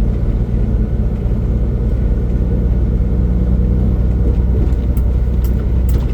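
A truck's diesel engine and road noise heard from inside the cab while cruising: a steady, low drone. A few light ticks come near the end.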